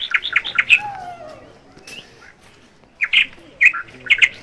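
A bird calling: a quick run of short, sharp high notes, then a few more about three seconds in.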